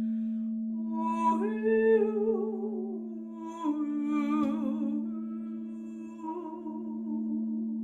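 A woman's wordless sung tones, sliding between long held notes with a wavering vibrato, over a steady sustained drone such as a singing bowl's ring.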